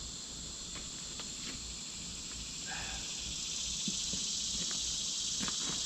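Steady, high-pitched chorus of insects, a continuous shrill hiss that grows louder about halfway through.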